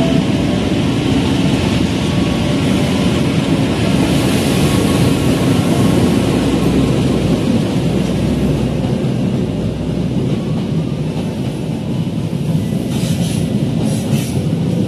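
Diesel-hauled passenger train passing close by at a station: a steady, loud rumble of its coaches' wheels running on the rails. A few brief high-pitched sounds come near the end.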